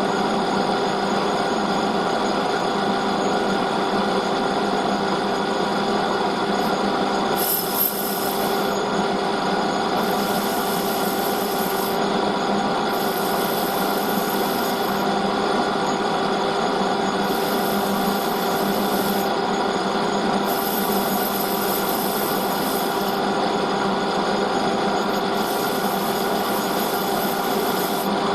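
Metal lathe running with a steady hum while the cutting tool turns a taper on a bushing. From about a quarter of the way in, a high cutting hiss comes and goes in repeated stretches of a second or two.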